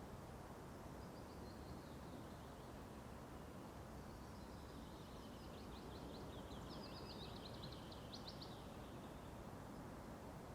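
A songbird singing faintly over a steady low outdoor background: a short phrase about a second in, then a longer run of rapid high notes from about four and a half seconds in.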